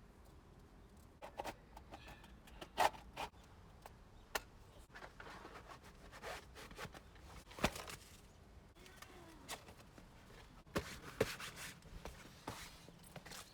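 Irregular small knocks, clicks and rubbing, a dozen or so spread unevenly, the sharpest about three seconds in, near the middle and about eleven seconds in.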